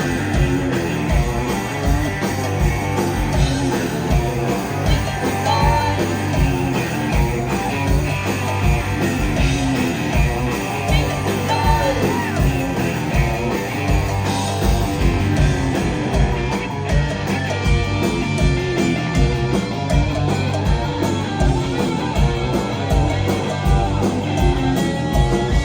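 Rock band playing live, loud, with electric guitar, bass and a steady drum beat, and singing over it.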